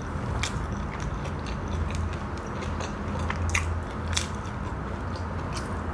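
Close-miked chewing of crisp fried snacks, with a few sharp crunches and mouth clicks, the clearest about half a second in and three times between three and a half and five and a half seconds. A steady low hum lies underneath.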